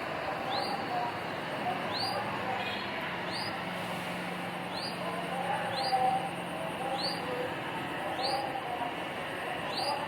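Birds calling: a short, high chirp repeated evenly about once a second, over softer, lower warbling calls.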